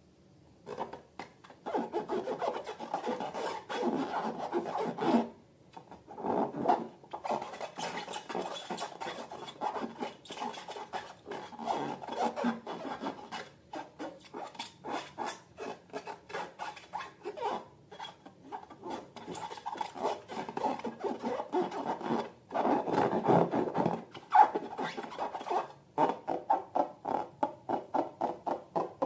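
Hands rubbing and squishing balloons and slime in a long run of irregular rough strokes. Near the end the strokes turn into a quicker, regular series of about three a second.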